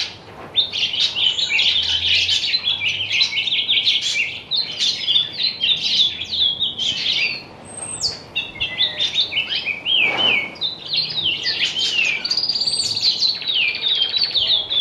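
Sparrow chirping, a rapid, continuous run of short high chirps and quick downward-sliding notes, with a brief lull a little past halfway.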